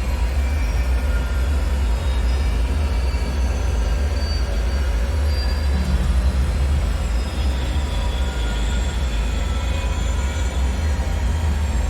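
Dark bunker ambience: a steady deep rumble, with faint high metallic whines and squeals drifting in and out over it.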